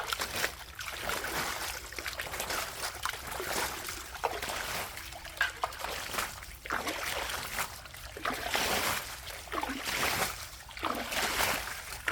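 Water trickling and splashing onto wet soil in uneven surges.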